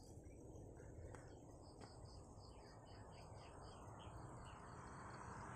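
Faint chirping, high notes repeated evenly about five times a second, with a lower run of chirps joining near the middle, over a low background rumble.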